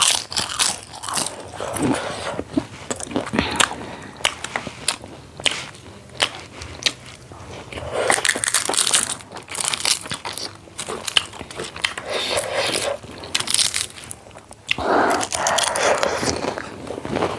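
Close-miked chewing and biting of a meal, with irregular crunchy bites and clicks from the mouth.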